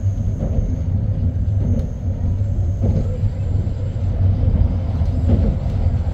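Tokaido Shinkansen N700S train running along the track, heard from on board: a steady low rumble of wheels and running gear.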